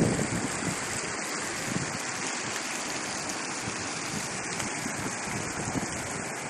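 Steady rush of water, a dense even noise with no pauses, with low wind gusts on the microphone at the very start.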